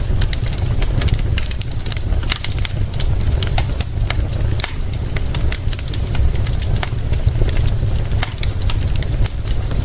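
Wood fire crackling, with many sharp pops and snaps throughout, over a steady low rumble.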